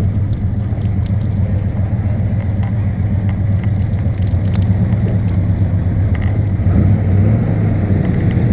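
Car engine running steadily at idle, a deep even hum close to the microphone.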